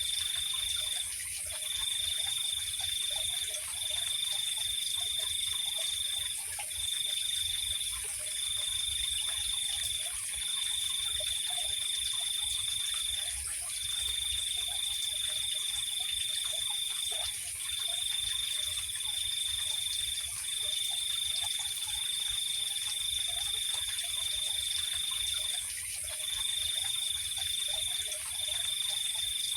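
Night insect chorus: a cricket trilling at one high pitch in long runs of one to three seconds broken by short gaps, over a steady, higher insect hiss, with faint frog calls beneath.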